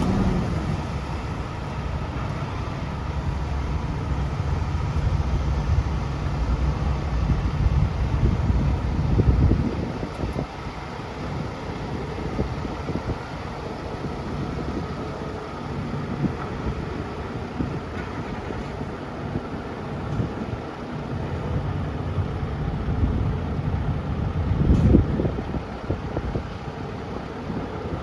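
Kenworth semi truck's diesel engine idling just after start-up, a steady low rumble. It gets louder for a moment about nine seconds in and again briefly near the end.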